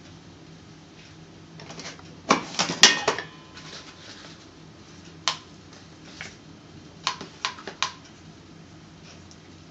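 Hard plastic clicks and clatter from a lever-operated Top-O-Matic cigarette rolling machine being handled and worked: a burst of rattling about two seconds in, a single click in the middle and a quick run of four clicks near the end.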